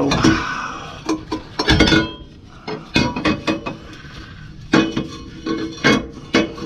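Metal exhaust pipe sections clinking and knocking together as a pipe bend is handled and test-fitted: a string of sharp knocks, some leaving a brief ringing tone.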